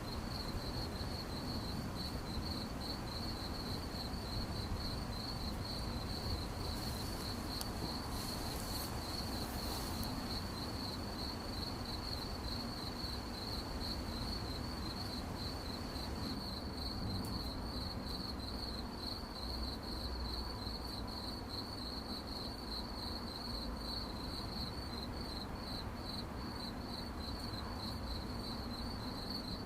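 Crickets chirping: a steady, rapidly pulsing high trill that never stops, over a low background rumble.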